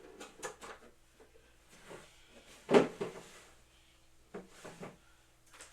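Knocks and clatter of the parts of a boxing-equipment base being handled and set down during assembly, with one sharp loud knock about three seconds in.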